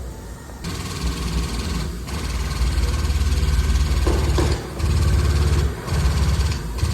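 Hydraulic pump of a frame-pulling rig running in rapid pulses as it drives a pull on the crumpled rear body panels. It starts about half a second in and cuts out briefly twice in the second half.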